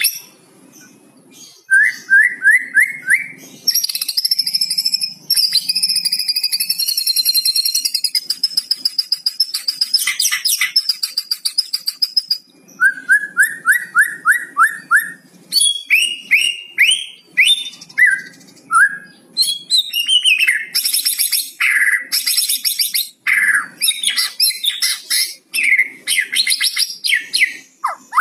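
White-rumped shama singing a varied, loud song of whistles and harsh rattling phrases, the 'kretekan' crackle. Its song includes quick runs of five or six identical notes, a long high whistle, and rapid scratchy note series.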